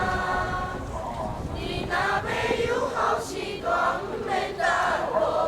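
A choir singing in Taiwanese Hokkien, voices in several parts, in short phrases.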